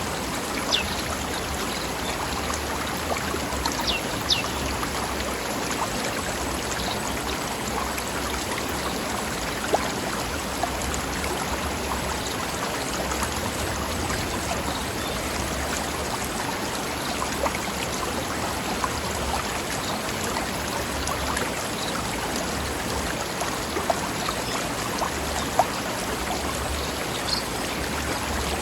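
Forest river flowing over rocks: a steady rushing, babbling water sound, with a few brief louder splashes here and there.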